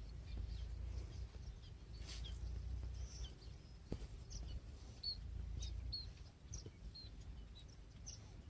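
Small birds chirping in short, high notes scattered throughout, over a low rumbling noise, with one sharp tap about four seconds in.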